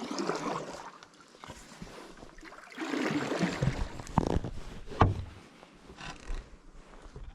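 Canoe paddle strokes: water swishing off the blade in two strokes, with a single sharp knock about five seconds in.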